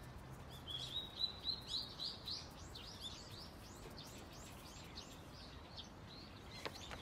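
A small bird chirping repeatedly: short, high, falling chirps a few times a second over faint outdoor background noise, stopping shortly before the end.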